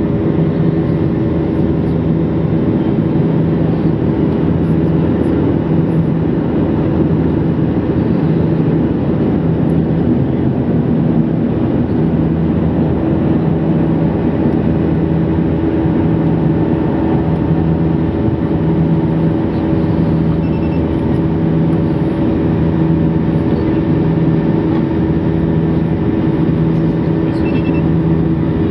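Jet airliner cabin noise from the engines during the climb: a steady, loud drone with a low hum that swells and fades slowly, about once every second and a half.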